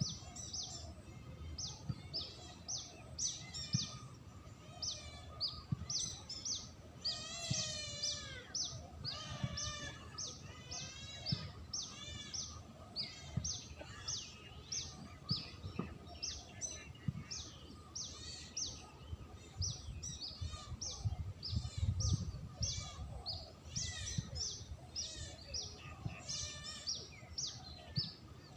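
Small birds chirping rapidly and continuously: a dense run of short high chirps, several a second, with a few longer wavering trills about eight and ten seconds in.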